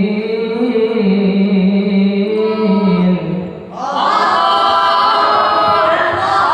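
Voices singing unaccompanied in a chant-like melody, held low at first; about four seconds in, a higher, brighter vocal line takes over.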